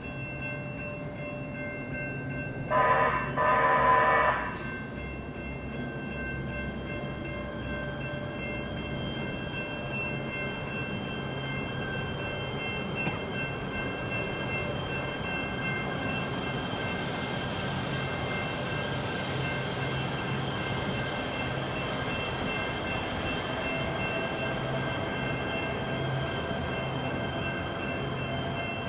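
A train horn sounds a short blast and then a longer one about three seconds in, over the steady ringing tones of a railroad crossing's warning bell. From about halfway through, the noise of the passing train builds up and holds.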